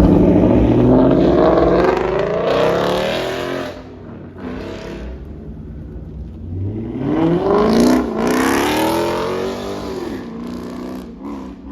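A car engine revving hard twice. The pitch climbs for the first few seconds and drops off, then after a short lull climbs again to a peak about eight seconds in and falls away.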